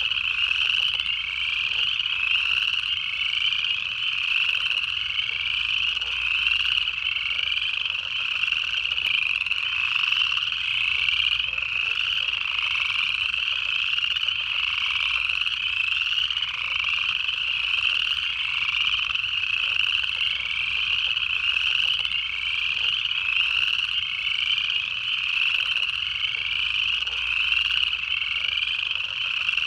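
Dense chorus of upland chorus frogs: many overlapping rising trills, repeated over and over without a break.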